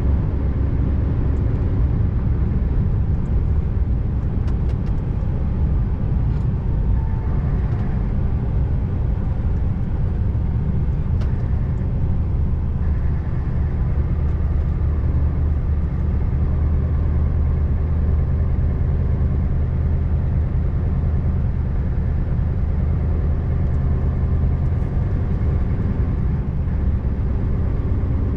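A Scania R590 tractor unit driving steadily on the road: its 16-litre V8 diesel engine drones evenly over tyre and road noise.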